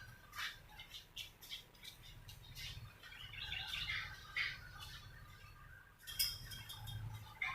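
A pet bird giving short squawks and chirps amid scattered sharp clicks, with a louder, sharp squawk about six seconds in.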